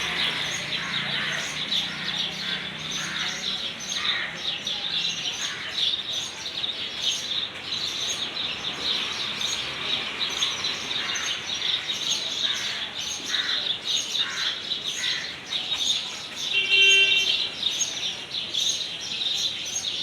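Many birds chirping and calling at once in a dense, continuous chorus of short, high calls. About three-quarters of the way in, a brief, louder pitched sound with overtones cuts through.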